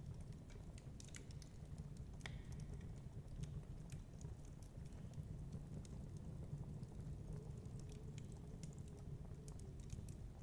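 Fireplace crackling: irregular small pops and snaps, one sharper snap about two seconds in, over a steady low rumble of storm wind.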